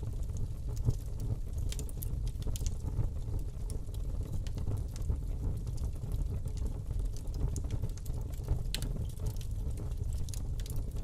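Fire burning in a fireplace: a steady low rumble of the flames with irregular crackles and pops, the loudest pop about a second in.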